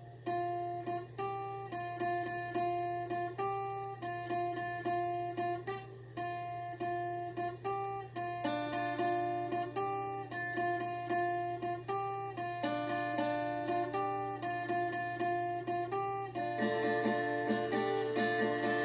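Acoustic guitar played as a song intro: single picked notes, each ringing out and fading, in a steady rhythm of about two a second, with fuller chords from about 16 seconds in. A steady low hum sits underneath.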